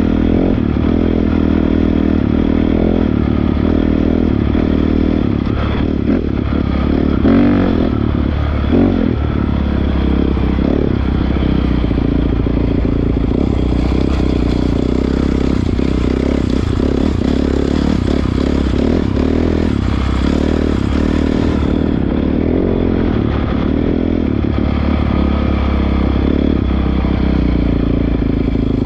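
Honda CRF450R dirt bike's 450 cc single-cylinder four-stroke engine running while being ridden, its pitch rising and falling with the throttle. A few clattering knocks come about seven and nine seconds in.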